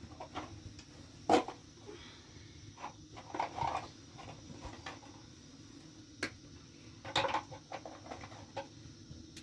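A few scattered sharp knocks and clicks with softer clattering between them, the loudest about a second in and another cluster about seven seconds in.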